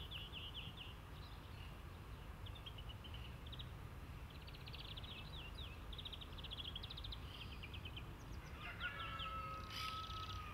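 Songbirds singing outdoors, rapid trills and short chirps repeating throughout over a low steady rumble. Near the end a steady whistling tone joins for about two seconds.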